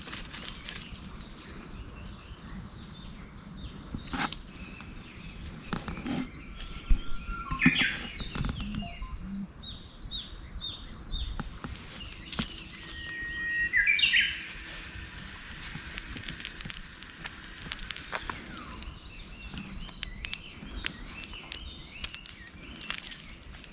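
Wild songbirds chirping and singing, with two louder song phrases about 8 and 14 seconds in. Scattered clicks and a low rumble sit underneath.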